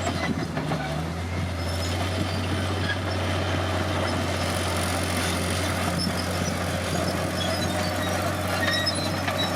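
Komatsu D50PX bulldozer's diesel engine running steadily under work, a continuous low drone, with short high squeaks dotted through it.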